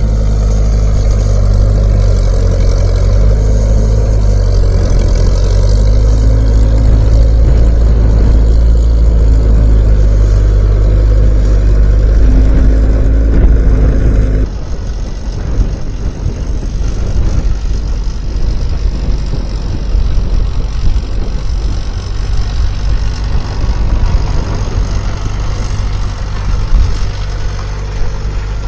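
Skid steer engine running under load, its pitch rising and falling with the throttle. About halfway through the sound changes suddenly to a rougher, noisier rumble with little steady engine tone.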